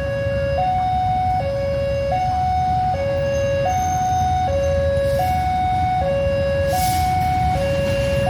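Railway level-crossing warning alarm sounding a two-tone electronic signal, alternating between a higher and a lower tone about every three-quarters of a second, over a low steady rumble.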